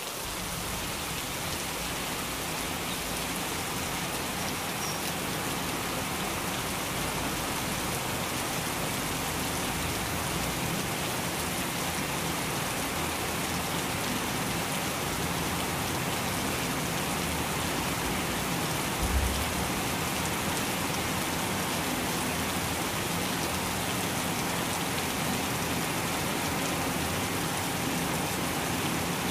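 Heavy rain pouring down in a steady, continuous hiss, with one brief low thump about two-thirds of the way through.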